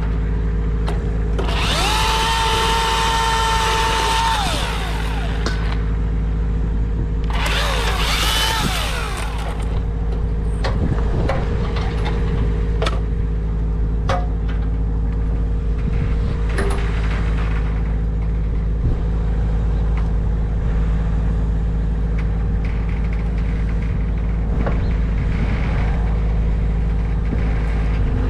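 An engine idles steadily throughout while a power saw cuts wood in two short bursts, the first about two seconds in and the second at about eight seconds, each ending as the saw's pitch drops.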